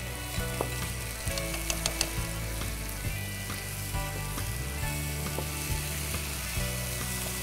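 Onion and spice paste frying in oil in a non-stick pan, sizzling steadily as chili powder is stirred in with a wooden spatula. A few sharp clicks of the spatula against the pan come around two seconds in.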